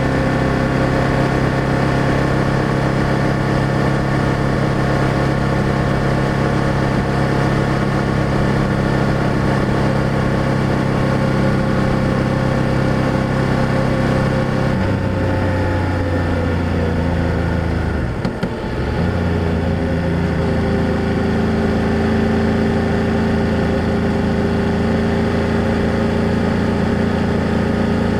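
BMW F800GS parallel-twin engine and exhaust running steadily under way. About halfway through the engine note drops to a lower pitch, with a short dip about 18 seconds in, then settles steady again.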